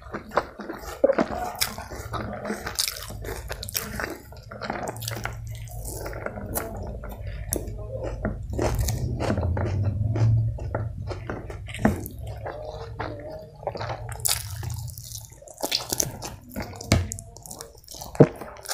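Close-miked eating: chewing mouthfuls of chicken biryani, with many wet mouth clicks and smacks and fingers working the rice. A low hum swells through the middle stretch.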